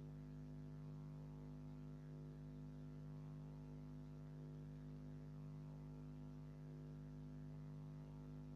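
Faint steady low hum with no other events: room tone.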